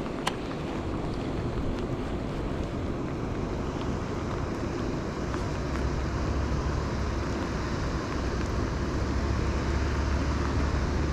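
Wind buffeting the microphone, a steady rushing noise with a low rumble that grows stronger near the end. A single sharp click sounds just after the start.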